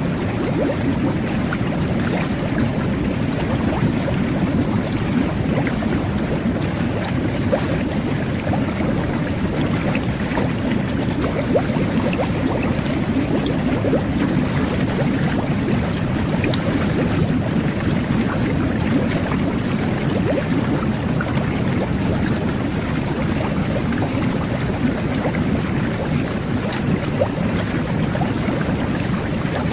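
Jet bath running: water jets churning and bubbling the tub water in a steady, low rush with small crackling bubbles throughout.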